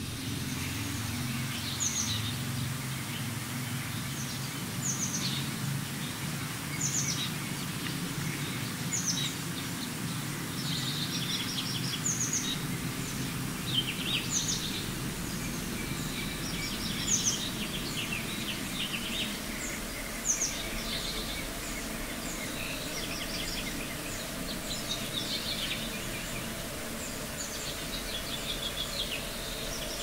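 A songbird singing a short phrase that drops in pitch, repeated every two to three seconds, with looser chirps toward the end, over a steady low rumble.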